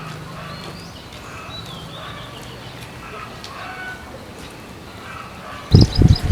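Faint bird chirps over a low background, then a sudden loud burst of noise near the end.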